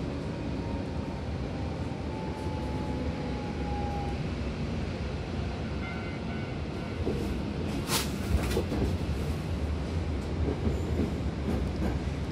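Hankyu train running on the Takarazuka Line, heard from inside the passenger car: a steady low rumble of wheels on rail. From about seven seconds in, irregular wheel knocks join in, with one sharp clack about eight seconds in.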